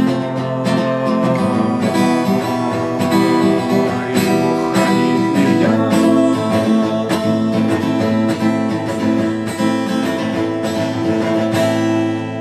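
Acoustic guitar strumming chords as the instrumental close of a song, with the last chord left to ring out near the end.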